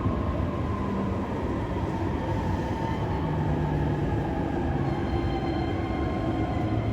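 Interior running sound of a JR East E531 series electric train: the Hitachi IGBT-VVVF inverter and traction motors whining in several steady tones over wheel-on-rail noise, with higher inverter tones joining about five seconds in.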